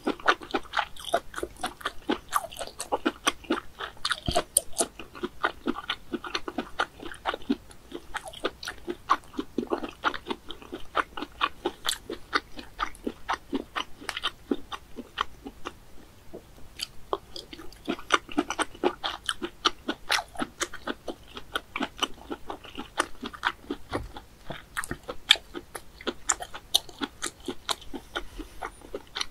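A person chewing and biting raw white snail meat, a steady run of crunchy mouth clicks, several a second.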